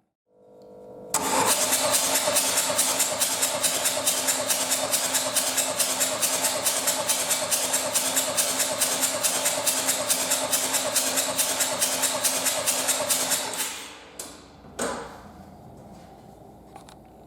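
Renault 1.9 dCi F9Q four-cylinder diesel being cranked on its starter motor, with an even rhythm of about five compression pulses a second and a steady starter whine. It turns over for about twelve seconds without firing, as in a compression check, then stops abruptly, with a couple of knocks after it.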